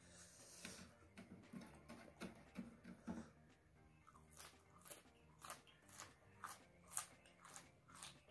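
Quiet close-up chewing of raw red chili peppers: soft mouth sounds at first, then from about four seconds in a regular crunch about twice a second as the chilies are bitten and chewed.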